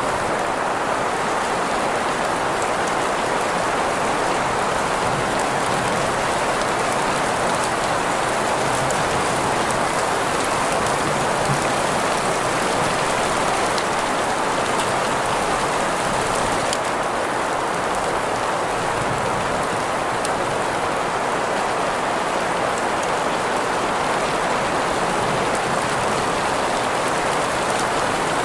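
Steady rain sound blended with green noise: an even, unchanging hiss centred in the middle range, with faint scattered drop ticks.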